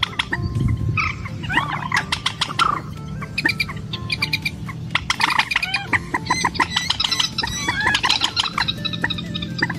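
A rail with a red frontal shield (Vietnamese 'trích rẽ mồng đỏ', a 'mandar') calling to a mate: a dense, unbroken run of clucking, squawking and clicking notes, over a steady low hum.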